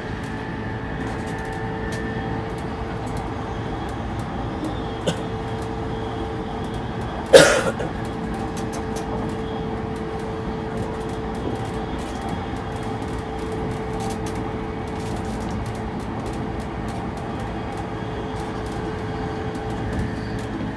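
Running sound inside a JR East E233 series electric train's motor car (MoHa E233-1419) between stations: a steady rumble of wheels on rail with a steady hum. One sharp bang about seven seconds in.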